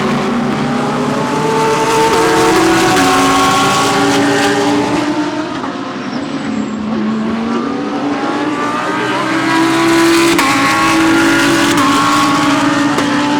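Several GT3 race cars running through a corner one after another, their overlapping engine notes falling and rising as they brake, shift and accelerate away. Another car or group comes through about ten seconds in.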